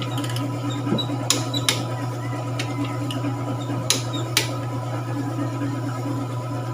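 Sharp metallic clicks of hand tools and engine parts being handled during assembly: four short clicks in two close pairs, over a steady low hum.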